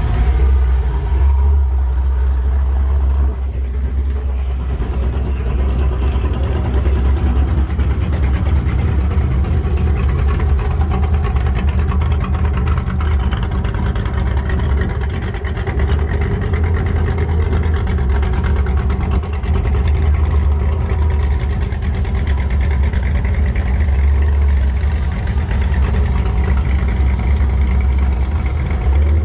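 A car engine idling with a steady, deep rumble.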